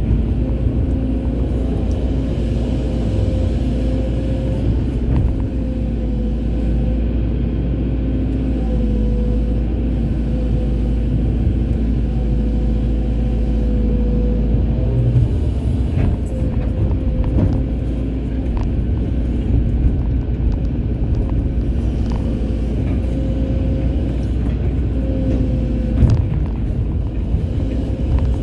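Excavator's diesel engine and hydraulics running steadily with a constant whine, and a few sharp knocks at about 16 and 26 seconds in.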